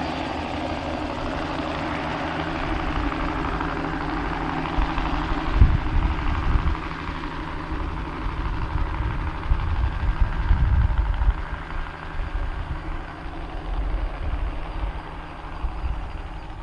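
Bell 206B-3 JetRanger III helicopter running steadily, its turbine and rotor heard close by. From about five seconds in, heavy, irregular low rumbling gusts come and go.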